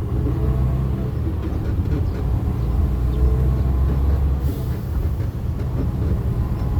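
Steady low rumble of a moving vehicle's engine and road noise, heard inside the cabin.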